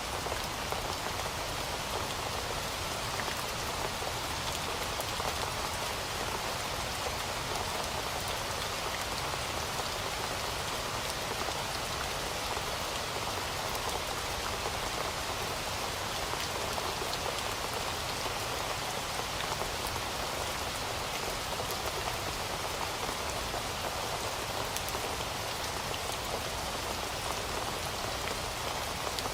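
Heavy rain falling steadily, a dense even hiss of drops hitting a surface, with many fine individual drop ticks and no let-up.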